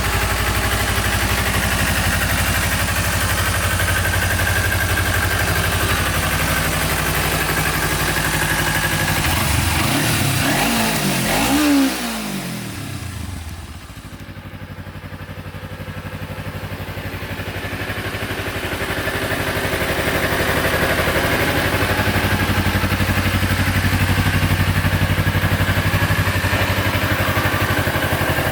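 2009 Kawasaki Ninja 250's parallel-twin engine idling steadily, with one rev about ten seconds in that rises and falls in pitch. After the rev the sound drops away for a few seconds, then slowly builds back to a steady idle.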